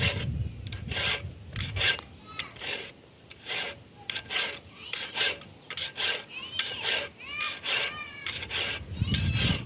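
A file rasping across a handsaw's teeth to sharpen it, in quick irregular strokes about two a second. Some strokes have a short squealing edge of metal on metal.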